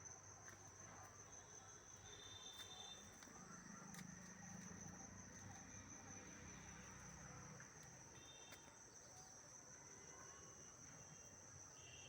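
Faint steady high-pitched drone of insects, crickets, with a few short higher calls breaking in now and then.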